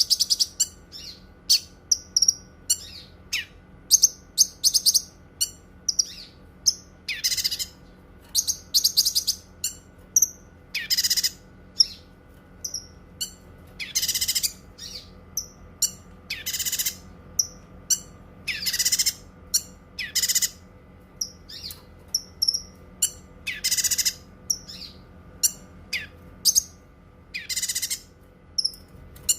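Cucak kinoi singing: quick runs of short, high chirps, broken every two or three seconds by a longer, louder burst of song.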